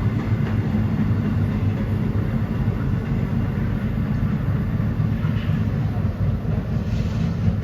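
New York City subway train moving through an underground station: a loud, steady low rumble of wheels on the rails.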